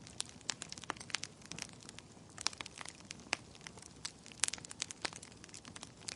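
Wood fire crackling in a fireplace: irregular snaps and pops, some in quick clusters, over a soft low rush of the flames.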